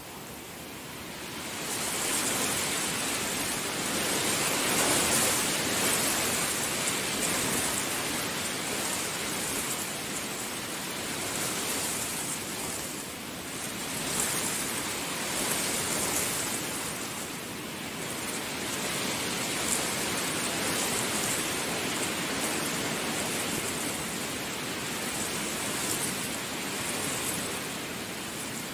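Heavy rain pouring down steadily. It builds up over the first two seconds, then keeps swelling and easing in waves every few seconds.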